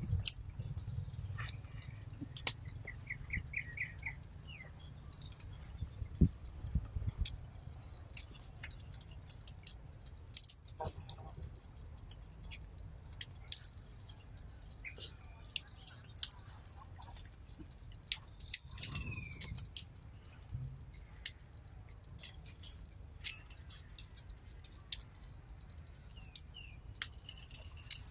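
Scattered sharp clicks and clinks throughout, over a steady low hum. A bird gives a quick run of about six chirps a few seconds in, and another short falling chirp near two-thirds of the way.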